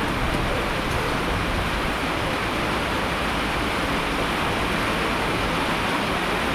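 Heavy rain falling in a steady, even rush of water noise, with no separate drops or events standing out.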